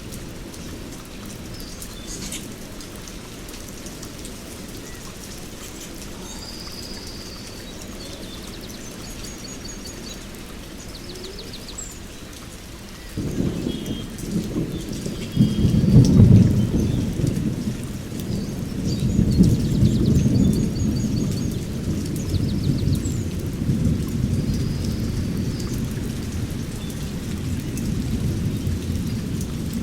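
Rain falling steadily with a low thunder rumble, then a roll of thunder breaks in about halfway through, swells for a few seconds and keeps rumbling. Songbirds chirp and trill several times over the storm.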